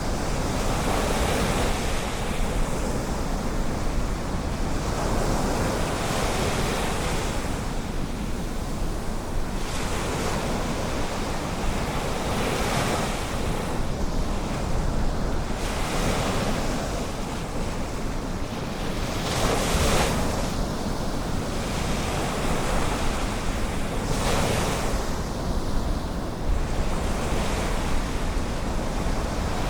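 Ocean waves breaking and washing in, a steady rushing wash that swells with each wave about every five to seven seconds.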